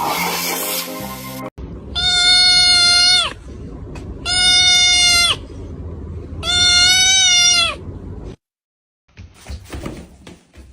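Music that cuts off about a second and a half in, followed by three long animal cries, each at a steady high pitch that drops at the very end.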